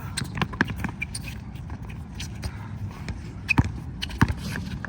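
Basketball play: a ball bouncing on the court and shoes shuffling and scuffing, with two sharper thumps about three and a half and four seconds in.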